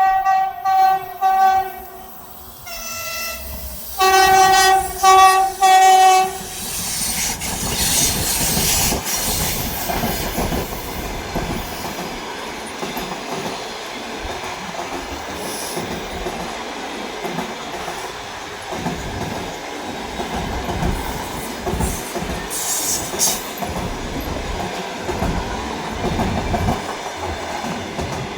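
Train horn sounding in a series of short blasts over the first six seconds, then the train passing the platform: a steady rumble with the wheels clattering over rail joints.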